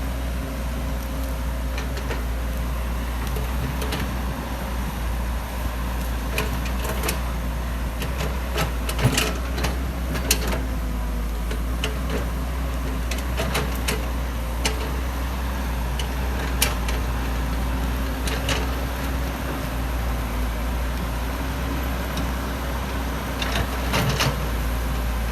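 Excavator engine running steadily at a constant low hum, with a few sharp knocks and clanks scattered through, the loudest about a third of the way in and near the end.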